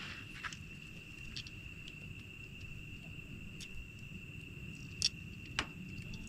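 Insects trilling on one steady high note over a low background haze, with two sharp pops near the end from the crackling wood campfire.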